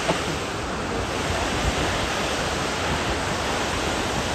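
Waterfall rushing, a steady, even roar of falling water with some wind buffeting on the microphone.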